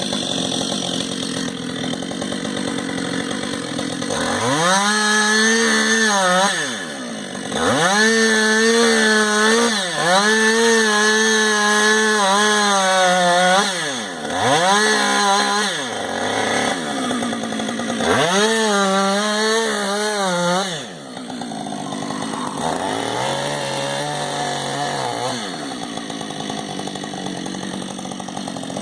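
Two-stroke chainsaw running, throttled up to full speed about five times for a few seconds each and dropping back to idle between, with a lower, shorter rev near the end.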